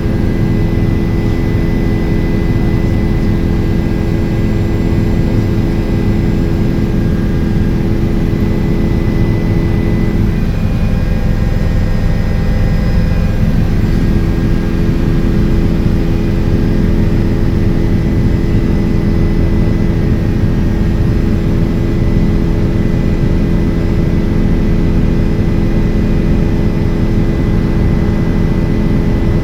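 Helicopter engine and rotor noise, loud and steady, with a constant hum running under it; one of the hum's tones briefly drops out about ten seconds in and comes back a few seconds later.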